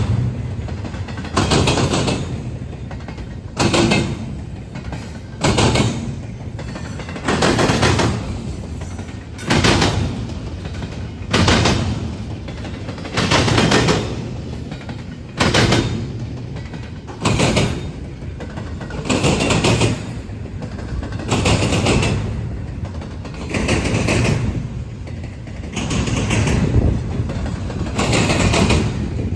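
Slow-moving freight train's wheels clanking over track joints as the cars roll past, a heavy clank about every two seconds over a steady rolling rumble.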